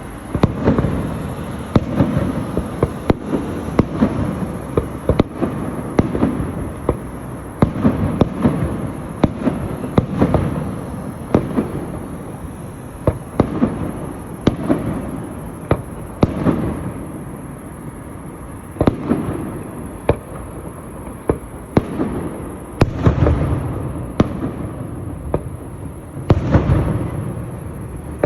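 Fireworks display: aerial shells bursting one after another, a sharp bang every second or so with rumbling echoes between, and heavier booms near the end.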